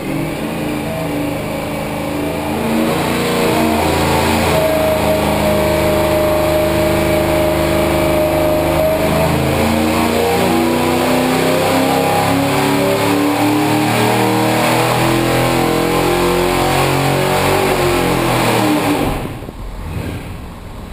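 360 cubic-inch small-block Chevrolet V8 making a dyno pull. It comes up to full load about two seconds in, and its pitch climbs steadily as the revs sweep upward. Near the end the throttle closes and it drops back.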